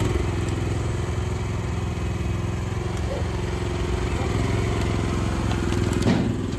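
Mini excavator's engine running steadily under work, with a short rattle near the end.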